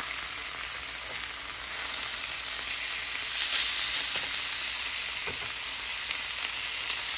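Skinless chicken breasts searing in oil in a hot pan: a steady sizzle with a few faint ticks, swelling slightly louder about three and a half seconds in.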